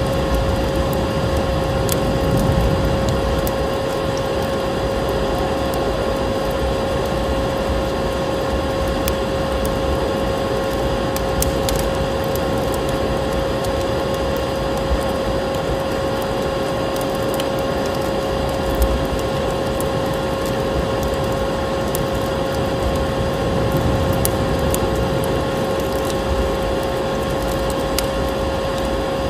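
Vacuum cleaner running steadily: a constant motor hum with a steady whine, over scattered crackles of a wood fire.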